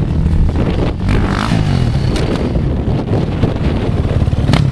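Dirt bike engine running close by under throttle, the revs rising and falling as it is ridden up a grassy slope. A single sharp knock near the end.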